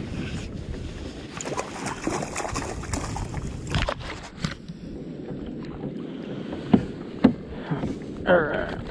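Wind on the microphone and water moving against a kayak hull, with scattered small clicks and two sharp knocks about seven seconds in.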